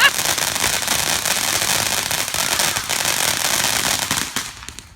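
Consumer firework going off in a dense, steady crackle of many rapid small pops, dying away about four seconds in.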